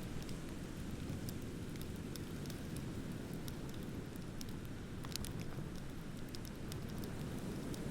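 Wood bonfire crackling, with scattered sharp pops and snaps over a steady low rush.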